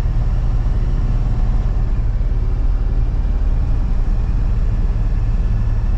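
Freightliner box truck driving in city traffic, heard from the cab: a steady low engine and road drone with no sudden sounds.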